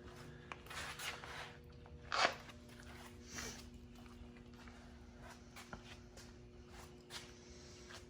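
Quiet handling and footstep noises over a faint steady hum, with one brief louder clatter about two seconds in.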